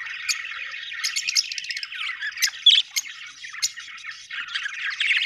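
Budgerigars chattering and warbling continuously, with frequent short sharp chirps and squawks over it, several birds calling at once.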